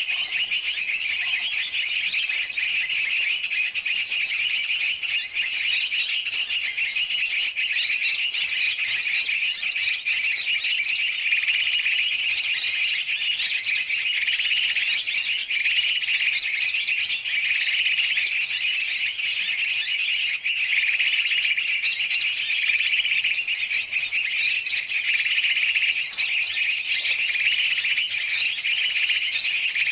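A bird-lure recording: many small birds chirping and chattering at once in a dense, unbroken chorus of short shrill notes and trills. It is a noisy mix of calls of large and small birds, used to draw birds such as yellow-vented bulbuls (trucukan) in.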